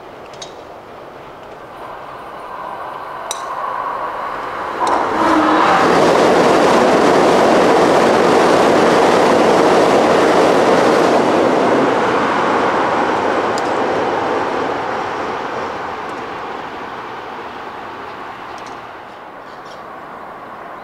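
Keikyu 2100 series electric train crossing a steel truss railway bridge. Its rumble builds over a few seconds, is loudest for about six seconds as it passes, then slowly fades away.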